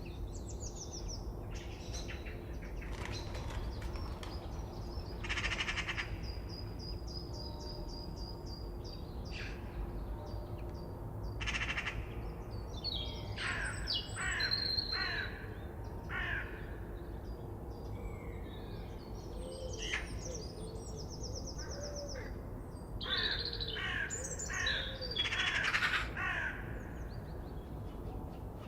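Several wild birds singing and calling at once: rapid trills, whistled notes and several harsh, cawing calls, busiest near the end, over a steady low background rumble.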